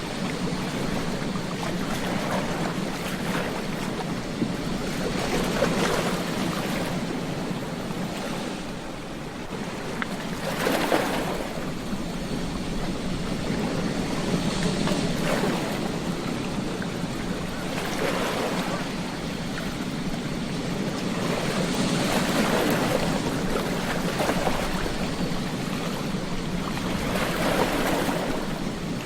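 Ocean surf breaking on a beach: a steady wash of water that swells every few seconds as each wave comes in and breaks.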